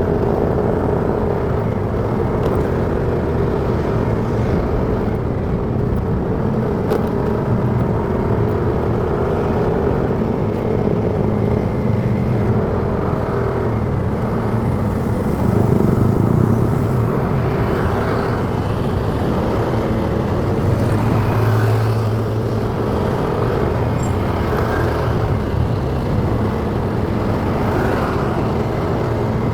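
Motorcycle running steadily while riding on the road, an even engine hum with road noise; it swells briefly twice, about halfway through and again about two-thirds through.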